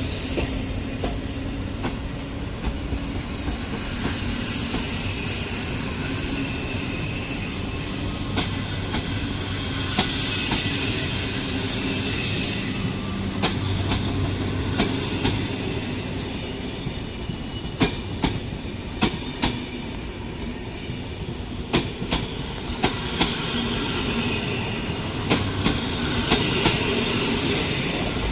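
PKP Intercity passenger coaches rolling past along the platform: steady rolling noise with wheels clicking over rail joints, the clicks coming more often in the second half. A high wheel squeal rises twice, about ten seconds in and again near the end.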